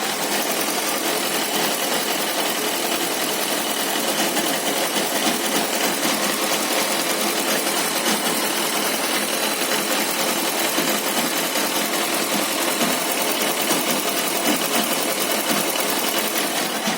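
Suzuki Bandit 1250's inline-four engine idling with a steady fast rattle, which the owner puts down to the clutch basket. The rattle goes away when the clutch lever is pulled.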